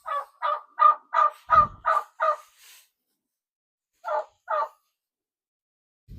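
Domestic turkey hen calling in agitation: a run of seven quick calls, about three a second, then two more after a pause. She is upset because the chickens have been shut in their pen out of her sight.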